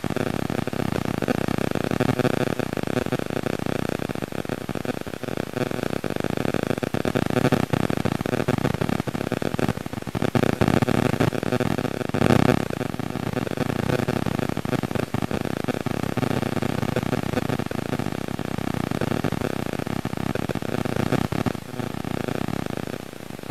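A car engine running, with a brief louder swell about halfway through.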